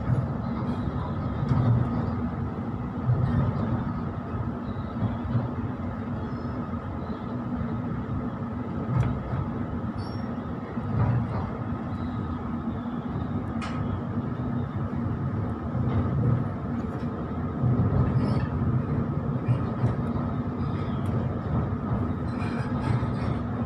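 Electric suburban train running, heard from inside the carriage: a steady rumble of wheels on rail with a constant hum, and a few faint clicks.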